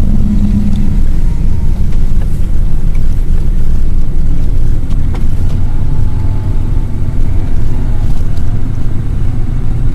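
A car driving through snow, heard from inside: a steady, loud low rumble of engine and road noise.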